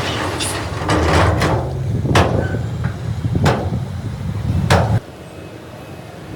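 Heavy machine's diesel engine running low, with a series of sharp knocks about a second or so apart. The engine and knocks cut off suddenly about five seconds in, leaving a quieter rushing background.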